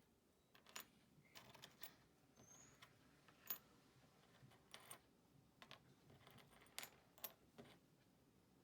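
Faint, irregular light metallic clicks and clinks, like small metal pieces being handled and set down, about a dozen over several seconds with the sharpest one a little past the middle.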